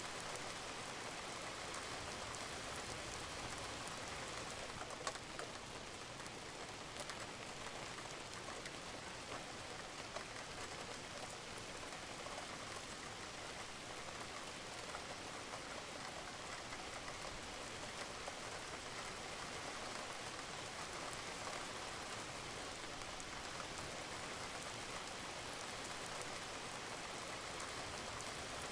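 Steady rain falling on a roof, with scattered individual drops and drips tapping.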